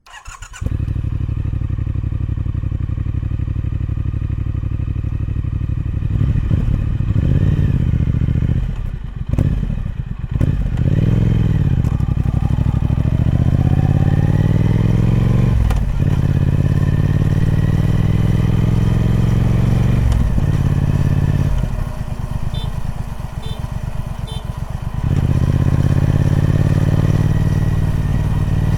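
Stock-exhaust Triumph Speed Twin 1200 parallel-twin engine running, first steady and then revved up and down several times, with short dips and a quieter spell near the end.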